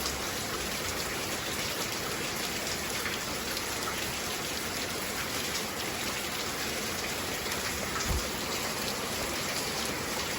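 Heavy rain falling steadily, with a brief low thump about eight seconds in.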